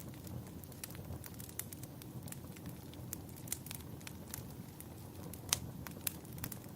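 Wood fire crackling in a fireplace: irregular sharp pops and snaps, one louder pop about five and a half seconds in, over a steady low rumble.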